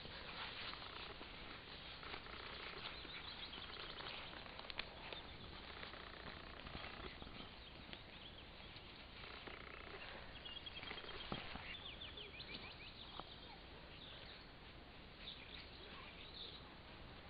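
Faint outdoor ambience with small songbirds chirping, including a quick run of short high chirps about ten seconds in. Scattered soft clicks and rustles sit beneath it.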